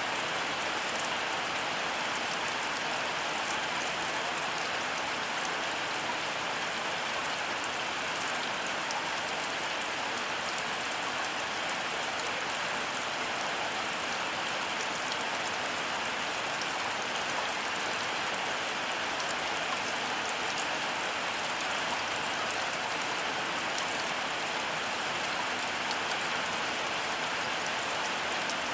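Heavy rain falling steadily, a dense even patter of drops with no thunder in it.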